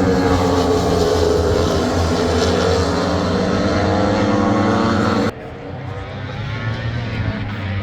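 Racing superbike engines at high revs as bikes pass at speed. The loud engine note cuts off suddenly about five seconds in, and a quieter engine sound carries on.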